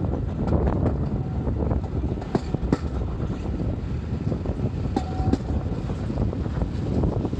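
Hunslet Austerity 0-6-0 saddle-tank steam locomotive hauling a train: a heavy, continuous low rumble of the engine and train on the move, with wind on the microphone. A few sharp metallic clanks come through, and a brief high squeal sounds about five seconds in.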